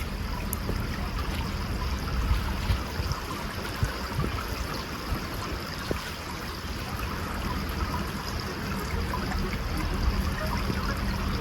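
Steady rushing water noise, like a flowing stream or rain.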